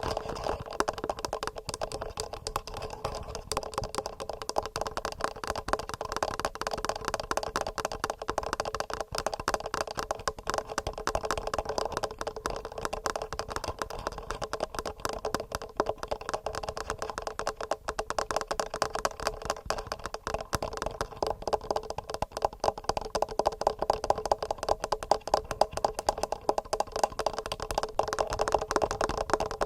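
Fast fingernail tapping on a TASCAM recorder, heard through its own microphones as a dense, even stream of clicks that does not let up.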